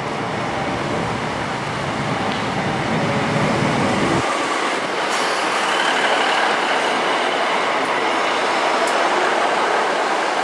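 Class 150 Sprinter diesel multiple unit running in alongside the platform, its underfloor Cummins diesel engines and wheels on the rails making a steady noise. The deep engine rumble cuts off suddenly a little after four seconds in, and a faint high wheel or brake squeal comes in about six seconds in.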